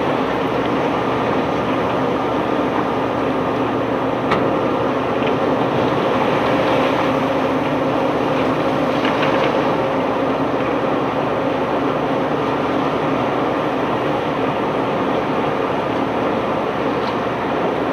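Steady drone of heavy unloading machinery running on a cobblestone barge, with a sharp knock about four seconds in and faint rattling a few seconds later.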